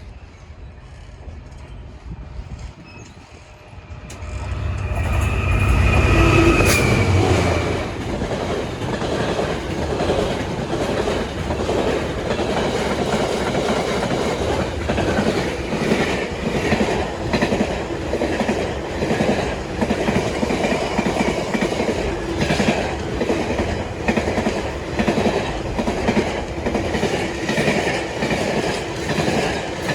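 A freight train passing close by. The locomotive goes by loudly about four to eight seconds in, then a long rake of wagons follows with steady, rhythmic wheel clatter on the rails.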